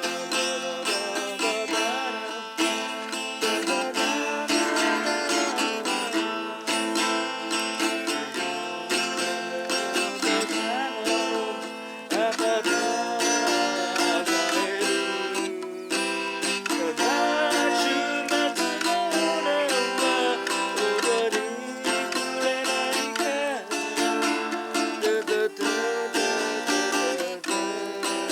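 Music: acoustic guitar playing, with many plucked notes and chords.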